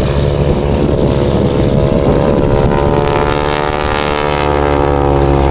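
Propeller-driven wingwalking biplane's engine and propeller droning in a steady display pass, the tone shifting in pitch about halfway through as it flies past.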